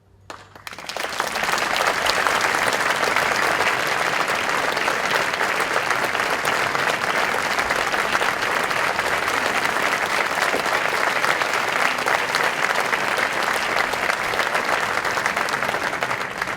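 Concert audience applauding, swelling up within the first second or two after the music stops, holding steady and dense, then dying away near the end.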